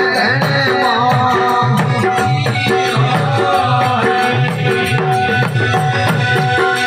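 Live folk devotional music without words: a steady drum beat at about two beats a second under a sustained, wavering melody line, with a regular high jingling percussion on top.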